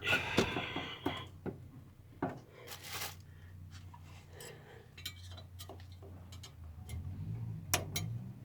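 Scattered small clicks and short rustles of hands working at a fuel-hose quick-connect clip, trying to release the hose from the fuel pump.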